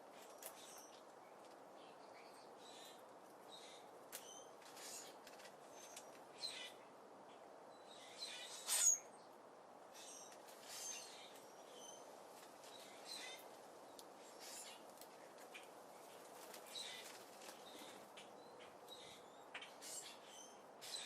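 Birds chirping on and off: many short, high chirps scattered throughout, the loudest about nine seconds in, over a faint steady background hiss.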